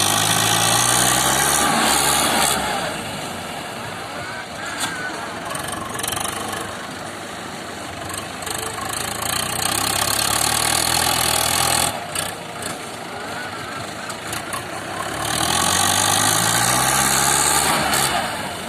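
Tractor engine working with a reverse blade, revving up with a rising pitch at the start and again about three-quarters of the way through, and running lower and steadier in between.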